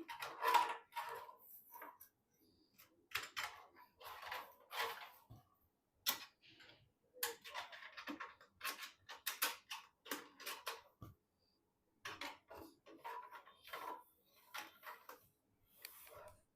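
Hands handling computer parts during a PC assembly: irregular small clicks, taps and rustles of plastic and metal pieces, with a few sharper clicks scattered through.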